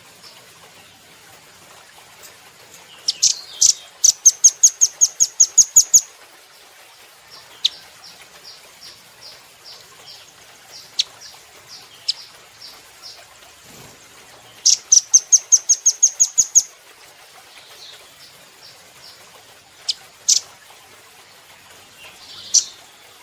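Velvet-fronted nuthatch calling: two loud, fast trills of sharp, high chip notes, about five a second and each lasting two to three seconds, about a third and two-thirds of the way in. Fainter runs of chips and a few single loud chips fall between them.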